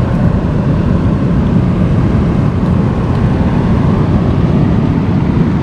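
Steady low rumble of wind and ocean surf on a rocky shore, with no distinct strokes or tones.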